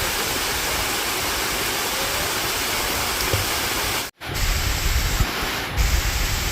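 A waterfall's steady rush of falling water. About four seconds in the sound drops out for an instant at an edit, and the rush then returns with low rumbling bumps under it.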